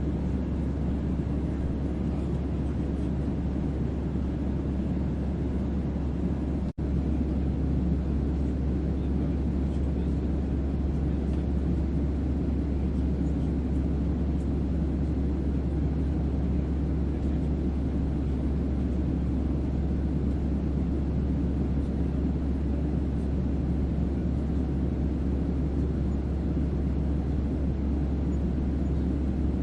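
Starship onboard-hum ambience, white noise with deep bass: a steady deep hum under a rumbling noise, cutting out for an instant about seven seconds in.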